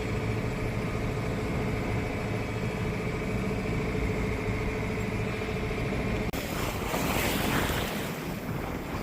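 A sailboat's engine running at a steady pitch. About six seconds in, the sound switches abruptly to wind buffeting the microphone over waves rushing past the hull.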